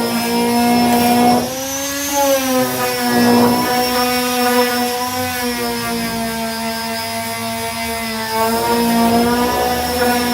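Electric disc sander running on body filler with a 240-grit disc: a steady motor hum with overtones. About one and a half seconds in, the pitch wavers and the sound drops a little quieter as the load on the pad changes.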